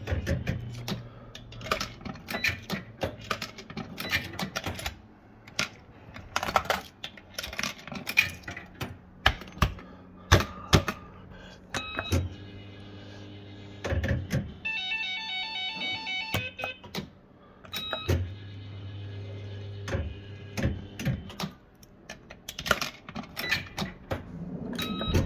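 Bell-Fruit FireCracker fruit machine in play: a busy run of clicks and clunks from coins and the mechanism over a low hum that comes and goes, with a short burst of electronic beeping tones about halfway through.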